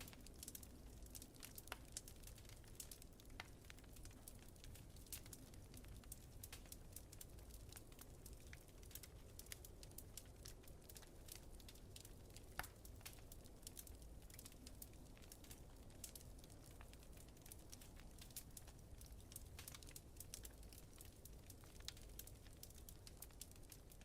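Wood fire crackling faintly, with frequent irregular small pops and snaps over a low, steady rumble.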